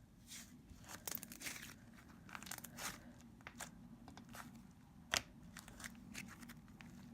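Soft, creamy slime being squished and stretched by hand, giving irregular sticky crackles and small pops, with one sharper, louder pop about five seconds in.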